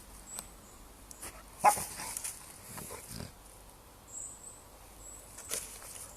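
A dog gives one short, sharp bark about a second and a half in, with softer sounds and small clicks around it.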